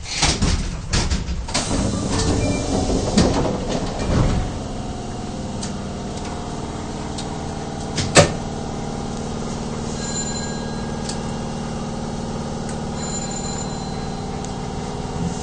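Subway train's sliding doors opening at the terminus, with a few seconds of clattering and rumble. After that the stopped train hums steadily, with a single sharp click about eight seconds in.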